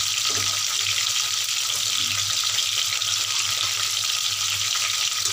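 Stuffed bitter gourds (bharwa karela) sizzling steadily as they shallow-fry in hot oil in a kadhai.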